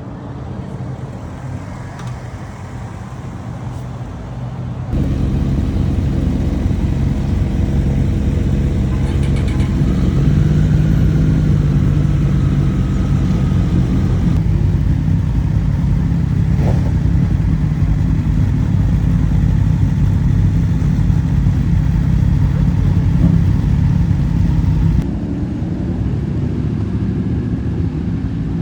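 Motorcycle engines running with a steady low rumble. It suddenly gets louder about five seconds in and drops back a little a few seconds before the end.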